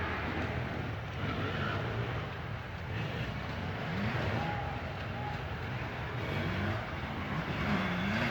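Dirt bike engines revving up and down on an enduro course, their pitch rising and falling several times over a constant rumble.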